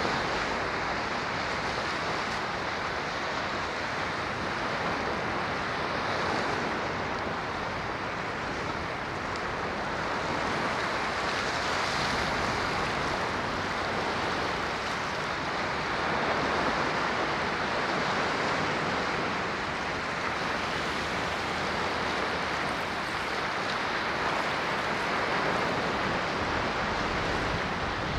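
Ocean waves washing on a shore, a steady rushing surf with gentle slow swells in loudness.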